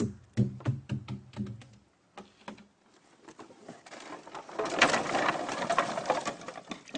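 Liquid fuel glugging out of a five-gallon can in quick pulses, about four or five a second, then a rougher, louder splashing pour for a few seconds after a short lull.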